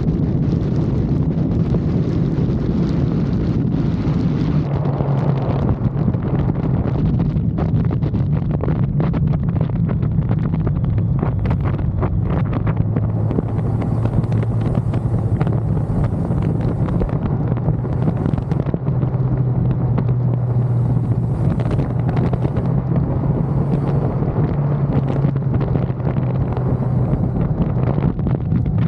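Motorcycle engine running steadily while riding, its note stepping lower and higher several times as the speed changes, with wind buffeting the microphone throughout.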